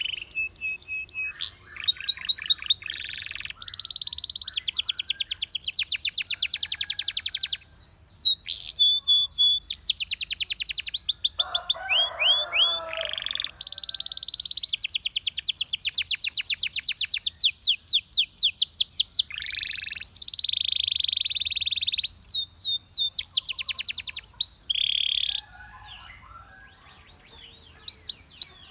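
Canary singing: long, fast trills of rapidly repeated high notes broken by short gliding whistles and brief pauses. A rougher, lower chattering phrase comes about twelve seconds in, and the song drops off for a couple of seconds near the end.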